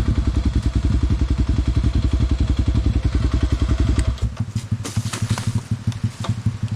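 Small dirt bike engine running at low revs with an even chugging beat. A little after four seconds in it drops back to a quieter, lighter running, with scattered clicks and knocks.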